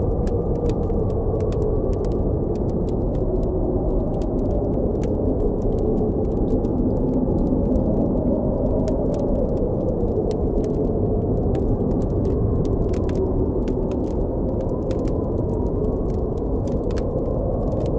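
Blizzard wind blowing steadily with a low howl that slowly rises and falls, over the frequent small pops and crackles of a campfire.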